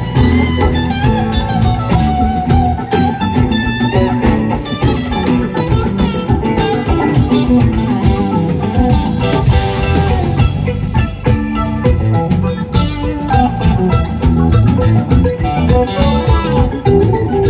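Live rock band playing an instrumental jam: guitar over bass and drum kit, with no singing.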